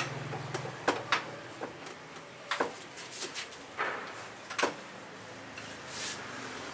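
A series of irregular, sharp clicks and knocks, like hard objects being handled and set down, over a faint steady low hum.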